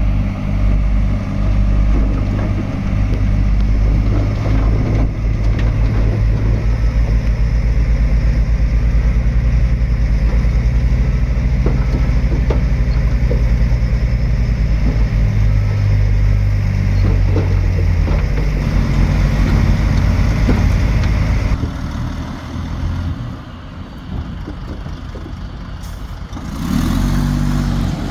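Heavy diesel engine of earthmoving machinery running loud and steady, then dropping to a lower, quieter note about three-quarters of the way through, with a brief swell near the end.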